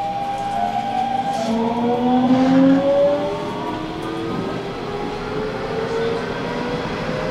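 Hanshin Railway local train pulling away from a station: the electric traction motors give a whine of several tones that climbs steadily in pitch as the train gathers speed, over the rumble of the wheels on the rails.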